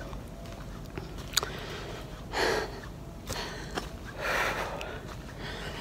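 A woman breathing hard, two heavy breaths about two seconds apart, winded after a short uphill hike, with a few faint clicks between them.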